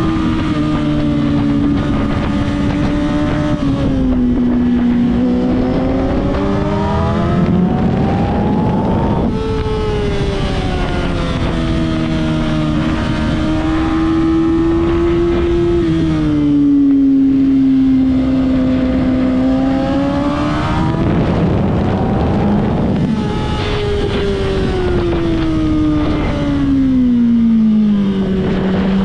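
Sport motorcycle engine heard from the rider's seat while it is ridden hard on a track. Its pitch climbs under acceleration, drops sharply at a gear change about nine seconds in, and slides down several times as the throttle is rolled off, all over a steady rush of wind.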